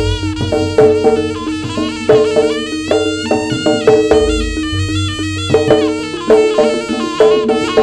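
Javanese jaranan music: a reedy wind instrument plays a wavering melody over an even beat of gong chimes and drums.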